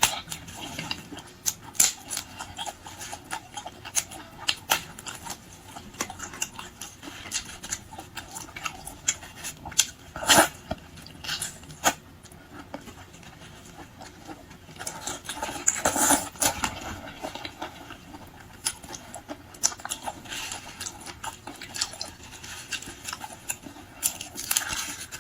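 Close-up eating sounds: shrimp being peeled and chewed, with irregular crackling clicks of shell and wet mouth noises. There are louder bursts about ten seconds in and again around sixteen seconds.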